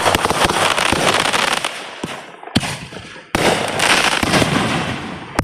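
Consumer fireworks going off in a rapid barrage of crackles and pops, with a fresh volley starting abruptly about three seconds in and a sharp bang near the end.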